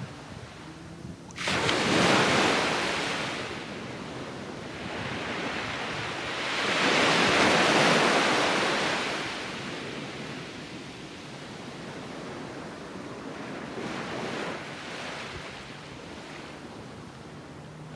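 Surf breaking on a sandy beach: a wave crashes suddenly about a second and a half in, a longer, louder surge swells and fades around the middle, and a smaller one breaks near the end, with the steady wash of the sea between.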